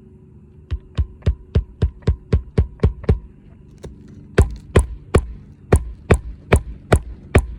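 Hammer driving roofing nails through a new asphalt shingle: a run of about ten quick, even blows, a short pause, then about nine heavier blows. The nail goes in without trouble.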